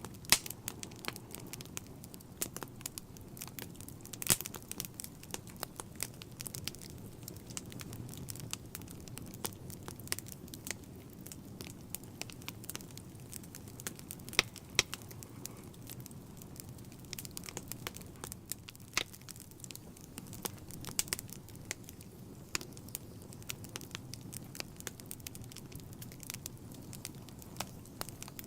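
Wood fire burning in a fireplace: a steady low rumble of flame with irregular crackles and snapping pops from the burning logs, a few of them louder and sharper.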